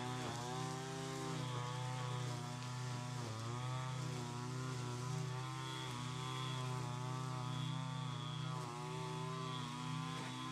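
Small gas engine of lawn equipment running steadily, its pitch dipping briefly a few times.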